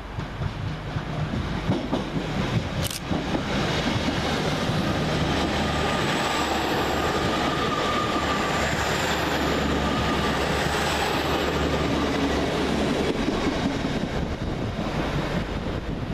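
A Class 802 bi-mode passenger train running through the station. The rumble builds over the first few seconds and holds steady, with a faint high thin tone over the middle stretch, then eases off near the end.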